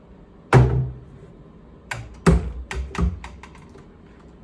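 Wooden furniture drawers and cabinet doors being handled: about half a dozen sharp knocks and clatters, the loudest about half a second in and a quick cluster between two and three seconds in.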